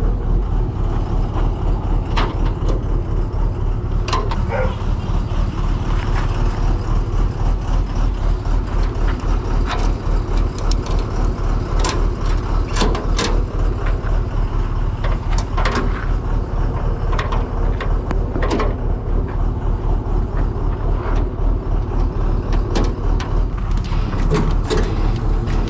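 Truck engine running with a steady low drone, with scattered knocks and rattles throughout.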